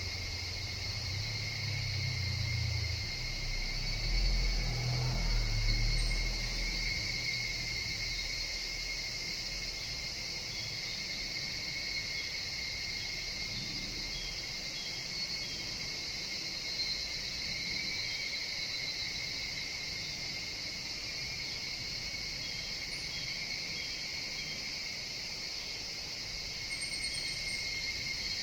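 Steady forest chorus of higurashi (evening cicadas) and other insects, a continuous high-pitched shimmer. A low rumble is heard under it for the first few seconds, then fades out.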